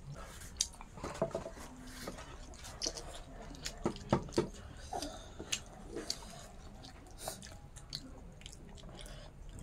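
Close-up chewing of leafy greens, rice and pork, with wet mouth smacks and small crunches at an irregular pace. A cluster of louder smacks comes about four seconds in.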